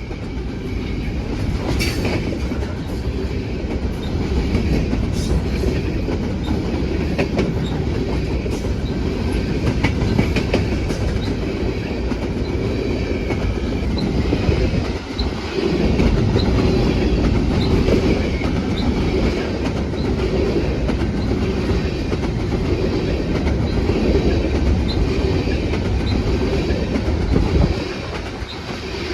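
BNSF freight train rolling past: the steady rumble of freight cars on the rails, with a regular clicking of wheels over the rail joints.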